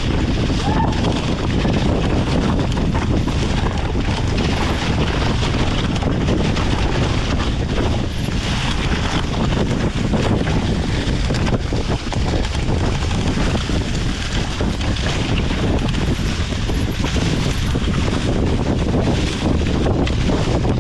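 Wind buffeting the microphone: a loud, steady rushing rumble with no break.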